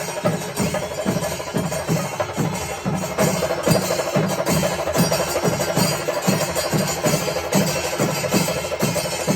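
Panchari melam ensemble playing: chenda drums beat a steady, even rhythm of about two to three strokes a second, over the continuous metallic clash of ilathalam cymbals.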